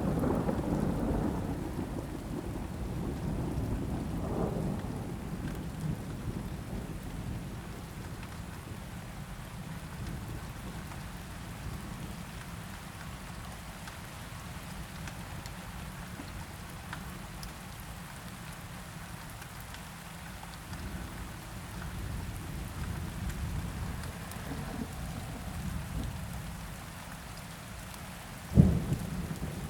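Steady rain with a roll of thunder dying away over the first few seconds, then a sudden loud crack of thunder near the end.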